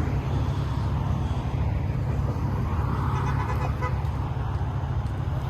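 Steady low rumble of car engines idling, with a faint car horn toot about three and a half seconds in.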